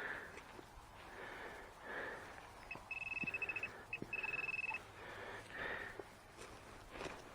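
Metal detector beeping: two runs of rapid, high-pitched beeps, each about a second long, a moment apart, as it sounds over a buried target, which turns out to be rebar.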